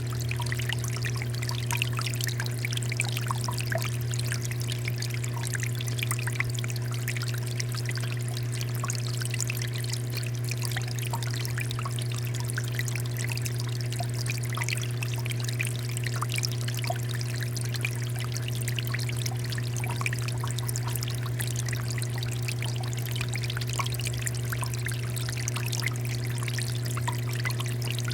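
Water fountain splashing and pouring steadily, with a constant low hum underneath.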